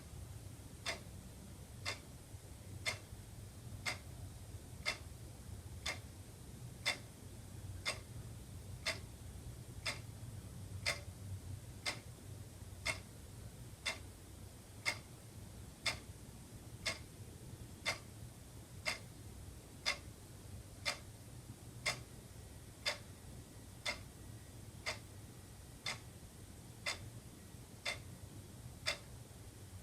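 Wall clock ticking steadily, one sharp tick each second, over a faint low hum.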